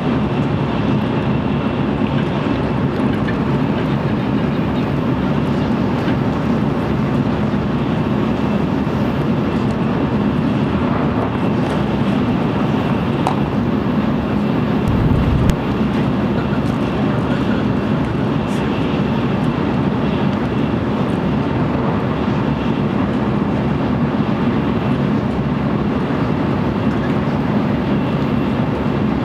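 Cabin running noise of an N700-series Shinkansen motor car at speed: a steady rumble and rush of wheels and air, heard through the window ledge, with a faint steady high whine. A brief low thud comes about halfway through.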